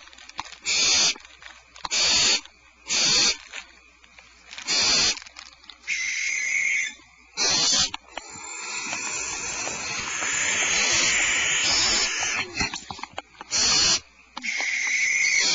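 Barn owls giving harsh rasping hiss calls, repeated about once a second. A longer drawn-out hiss comes midway, and a couple of the calls carry a screechy tone.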